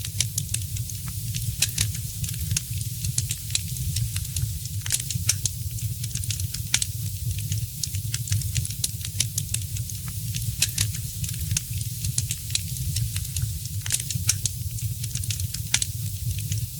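Wood fire burning in a fireplace, crackling and popping irregularly with dense sharp snaps over a steady low rumble of the flames.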